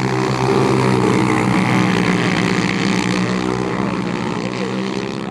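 Motor engine running steadily, growing louder over the first second and then slowly fading.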